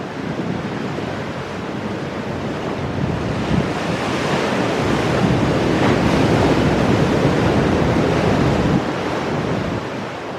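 Ocean waves breaking on rocks, a surge swelling about three seconds in, rushing loudest through the middle and easing off near the end, with wind on the microphone.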